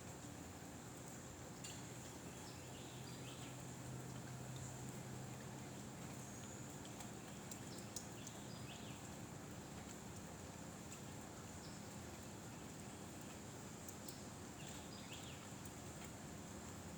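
Faint outdoor ambience: steady wind noise with a constant thin high buzz and a few short high chirps scattered through it.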